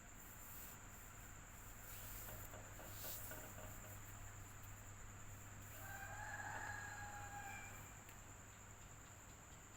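Faint, steady electric fan running, with a low hum and a thin high whine. About six seconds in, a pitched call lasting about a second and a half rises over it.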